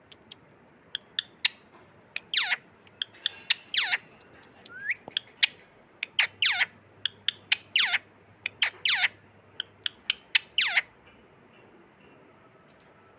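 Pet parrot calling: a run of sharp, steeply falling squawks, about six loud ones, mixed with short clicks. The calls die away a couple of seconds before the end.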